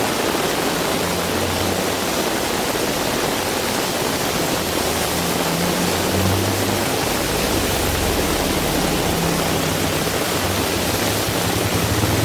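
Heavy rain pouring steadily, an even hiss of downpour, with a low rumble underneath that grows stronger about halfway through.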